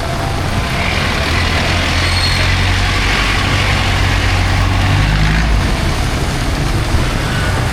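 A heavy vehicle passing close on a rain-soaked road: a low engine drone lasting about five seconds, with a hiss of tyres through water that swells and fades as it goes by, over steady rain.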